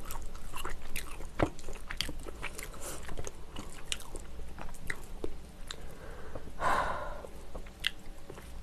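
Close-miked chewing of a mouthful of kimchi jjim (braised kimchi with pork and glass noodles), with many small wet mouth clicks and smacks. A brief louder rush of sound comes about two-thirds of the way through.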